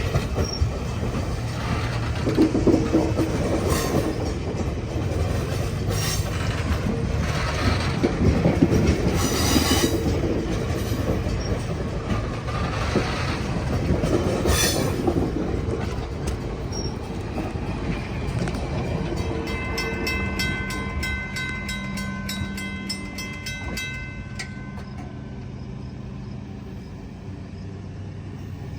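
Freight train rolling past at track side: steady wheel rumble with repeated clanks and short squeals from the passing cars. About two-thirds of the way through, a grade-crossing bell rings rapidly for several seconds while the train noise slowly fades.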